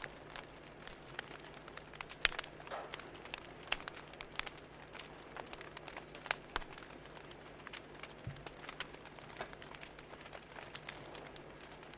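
Wood fire crackling: irregular sharp pops and snaps, some louder than others, over a soft steady hiss.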